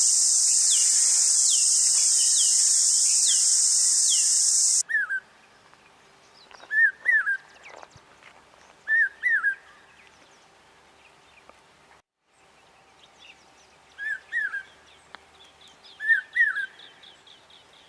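A loud steady insect buzz cuts off about five seconds in. After it, a common hawk cuckoo repeats its shrill two-to-three-note "brain-fever" call about every two seconds.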